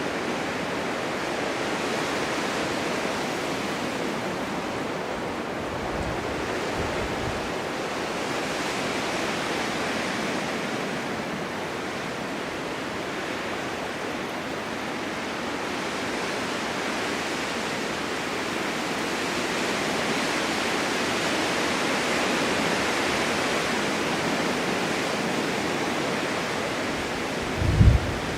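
Winter wind blowing steadily as a broad hiss, swelling and easing slowly in gusts. A few short low rumbles of wind buffeting the microphone, the strongest just before the end.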